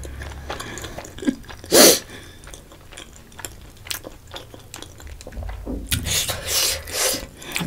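Close-miked mouth sounds of chewing spicy food: small wet clicks and smacks, with sharp breaths hissed through pursed lips against the chili burn, one loud one about two seconds in and several more near the end.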